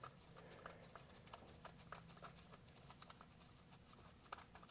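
Near silence with faint, scattered light clicks and taps.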